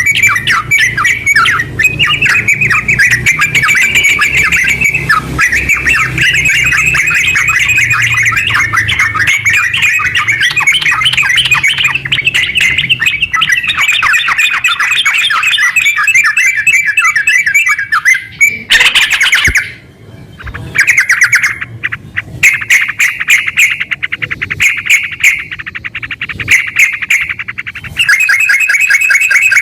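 Yellow-vented bulbul (trucukan) singing a long, loud, rapid chattering song, the notes running together continuously. About two-thirds in the song breaks off briefly, then resumes as fast, evenly repeated trilled phrases.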